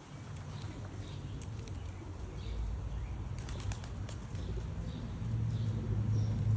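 Young racing pigeons' wings flapping and clapping in scattered sharp claps. A low steady hum comes in near the end.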